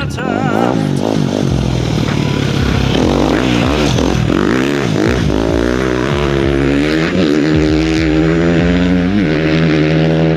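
Dirt bike engine being ridden hard, its pitch rising and falling again and again as the throttle is worked.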